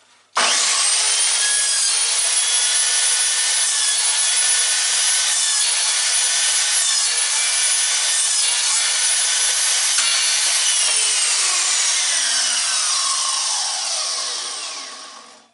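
1400 W Silverline mitre saw's motor starting with a rising whine, running steadily at full speed through a cut in wood, then switched off and spinning down with a falling whine over several seconds.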